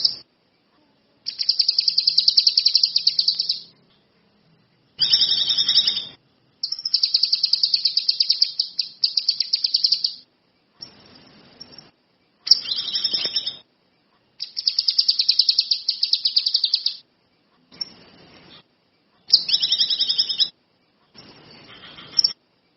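A kinoi songbird singing in repeated bursts of fast, buzzy, high trills, each lasting one to three seconds, with short pauses between them.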